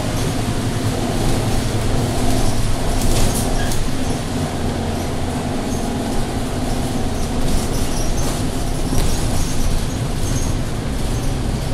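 Scania K230UB bus's diesel engine running steadily at low speed, a continuous low drone with occasional clicks and rattles.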